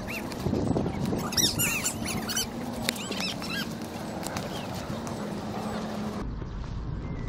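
Birds chirping in short, quick calls, bunched about one to three seconds in, with a few sharp clicks over steady outdoor noise; near the end the chirping stops and a low rumble takes over.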